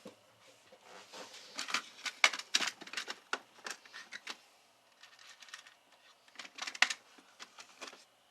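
Quick, irregular clicks, taps and light rustling from small tools and parts being handled on an amplifier workbench, in two busy spells with a short lull about halfway.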